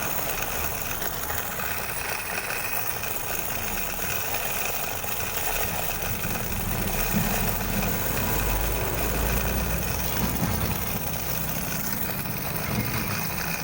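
Handmade miniature truck engine buzzing and rattling in imitation of an idling diesel: a small DC motor spins a wire that flicks against a piece of cut drink can. The rattle is steady, with a little more low rumble in the middle.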